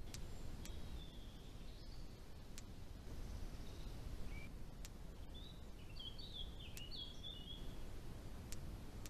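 A small songbird chirping, with a quick run of high twittering a little past the middle, over a steady low background noise and a few faint sharp ticks.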